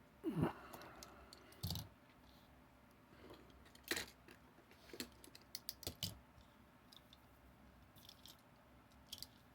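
Scattered clicks and light knocks of small die-cast toy trucks being handled and set down, with a quick run of clicks about five to six seconds in.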